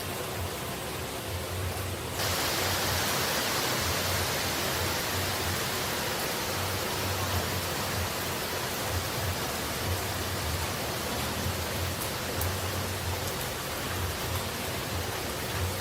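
Steady rushing of falling water, an even hiss with no breaks, that steps up louder and brighter about two seconds in.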